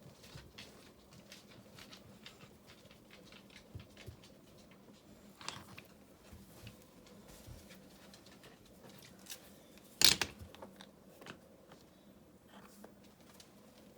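Scattered light clicks and scrapes of river rock being handled and set in mortar, with one sharp knock about ten seconds in, over a faint steady hum.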